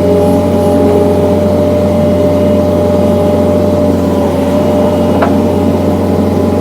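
John Deere skid steer engine running steadily under load, with a steady high whine over the engine note and a single knock about five seconds in.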